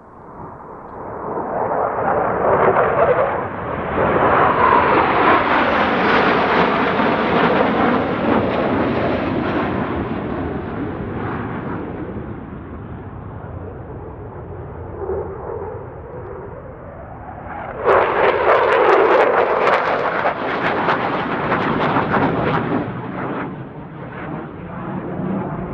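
Jet aircraft roaring past overhead: the roar builds over the first few seconds, holds loud, and slowly fades. A second loud, crackling jet roar starts suddenly about two thirds of the way in, then tails off.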